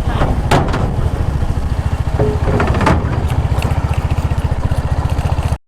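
Motorcycle engine running at steady low revs with an even firing beat while riding, with a few short knocks on a rough road; the sound cuts off suddenly near the end.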